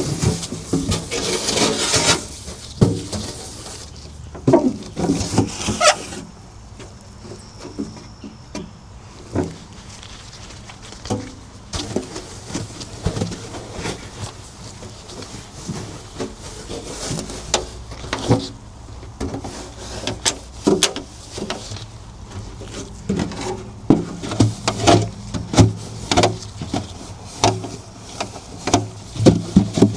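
Hands cleaning a refrigerator: irregular knocks and clicks of its plastic and metal parts being handled, with rubbing and scrubbing noise in the first couple of seconds.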